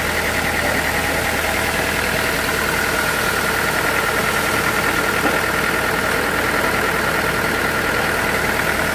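Sawmill machinery running steadily: an even mechanical hum with a steady high whine over it.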